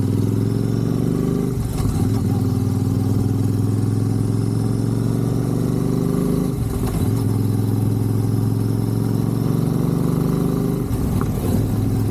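Royal Enfield Super Meteor 650's parallel-twin engine running through an SS MotoCorp full aftermarket exhaust while riding, a steady exhaust note with three brief breaks in it, about 2, 7 and 11 seconds in.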